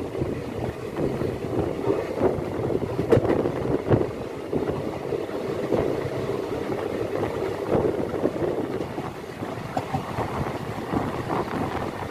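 Wind buffeting the microphone at the window of a moving passenger train, over the train's steady running rumble, with a sharp click about three seconds in.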